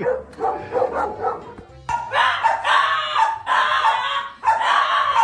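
A dog barking, four long barks in a row starting about two seconds in, over background music.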